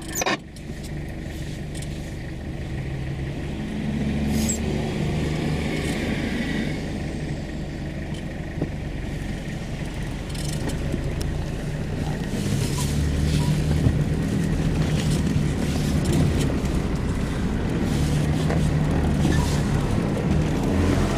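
A 4x4's engine heard from inside its cab, running at low revs, then pulling away and driving, growing louder as it picks up speed, with road noise.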